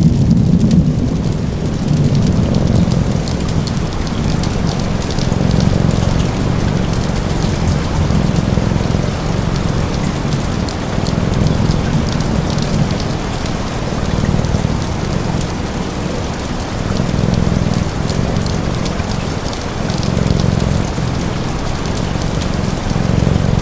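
Steady rain pattering, with fine crackles scattered through it. A low rumble swells and fades about every three seconds underneath.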